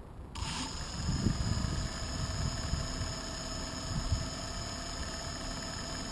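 The quadcopter's 2212 brushless motors start turning at low speed about half a second in, a steady thin whine of several tones. Gusty wind rumbles on the microphone over it.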